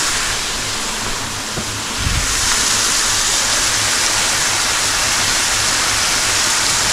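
Fish fillets and onion frying in hot oil, a steady sizzle. A low thump comes about two seconds in, after which the sizzle is a little louder.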